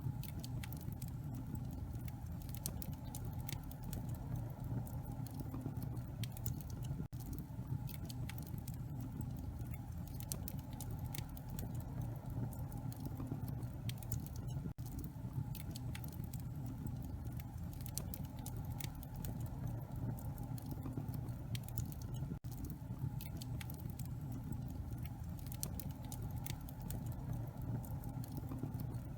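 Wood fire crackling in a fireplace: frequent small pops and snaps over a steady low rumble.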